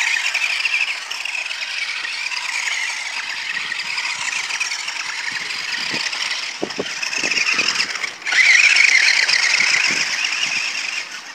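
Remote-control car's motor whining at a high pitch as the car is driven, dropping out briefly about eight seconds in and coming back louder. A few knocks and rattles from the car's body and suspension around six to eight seconds in.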